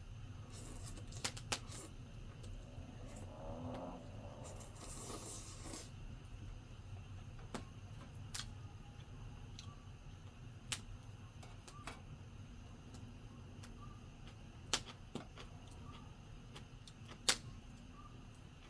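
Campfire crackling: sparse, irregular sharp pops from the burning wood over a faint low hum, with a short rush of noise about four seconds in.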